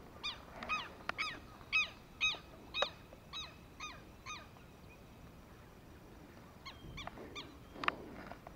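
A bird calling in a run of short, repeated calls, about two a second, growing fainter after a few seconds. After a pause, three more calls come near the end, then a louder one just before it ends.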